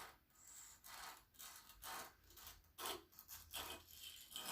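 Dental scaler's blade being drawn over a sharpening stone, a series of short, faint scraping strokes about two a second, as its cutting edge is sharpened.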